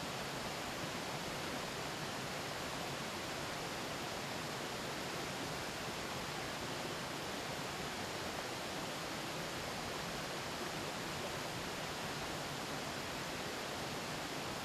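Mountain stream flowing steadily, an even rush of water with no breaks.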